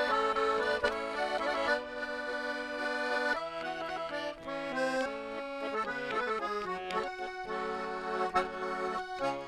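Russian garmon (button accordion) playing an instrumental passage: a melody over sustained bass chords that change every second or two.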